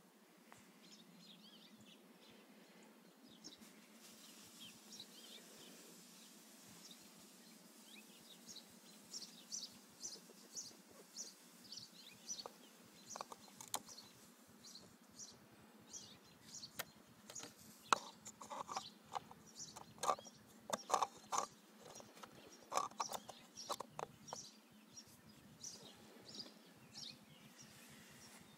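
Birds chirping, many short call notes coming thick and fast through the middle and later part, over a faint outdoor hush.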